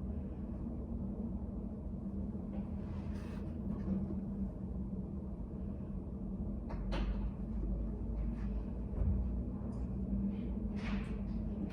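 Study cafe room ambience: a steady low hum with a few soft rustles and small taps about three seconds in, about seven seconds in and near the end.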